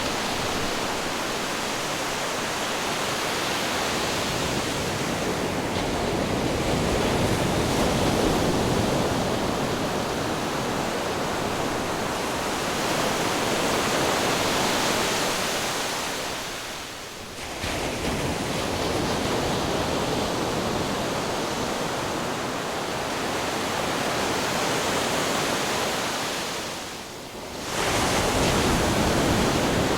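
Ocean surf and wind rushing in a steady wash that swells and eases slowly, dropping away briefly about halfway through and again near the end.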